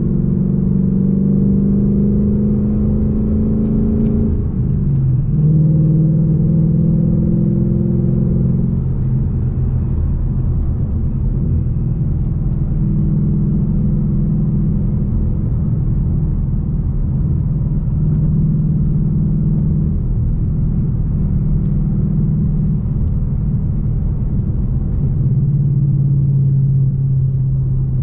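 2021 Ford Mustang GT's 5.0-litre Coyote V8 accelerating: the engine note climbs, drops sharply about five seconds in as the six-speed manual shifts up, and climbs again. It then settles into a steady cruise with small rises and falls in revs.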